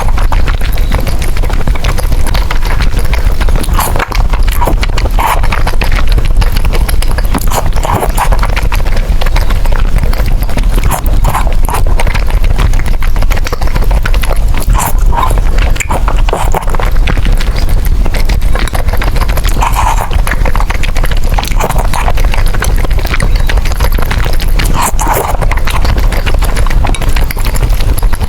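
Close-miked eating of noodles: continuous wet chewing and slurping with crackly mouth clicks and repeated short slurps.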